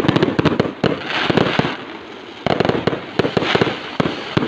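Aerial firework shells bursting in a display: many sharp bangs in quick succession, with a brief lull about two seconds in.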